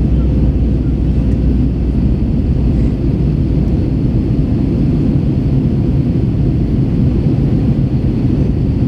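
Steady cabin noise of an Airbus A321 in flight: a low, even rumble of engines and airflow with a faint steady hum.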